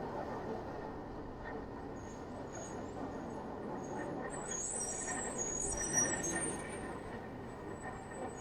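Steady city traffic and road noise while driving. Short high-pitched squeals come and go from about two seconds in and are densest around five to six seconds, and a single low thump lands near six seconds.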